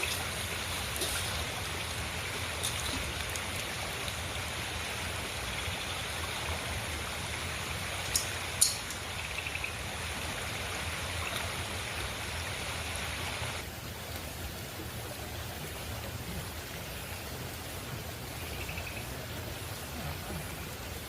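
River water flowing, a steady rush. Two sharp clicks come about eight seconds in, and the hiss in the upper range drops away a little past halfway.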